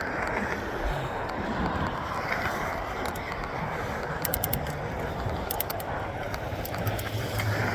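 Steady outdoor street noise with a low hum of passing traffic, and two short runs of quick clicks a little past the middle.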